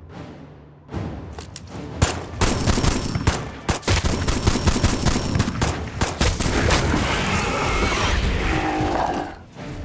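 Film soundtrack gunfire: a dense run of rapid shots starting about two seconds in and lasting several seconds, over background music.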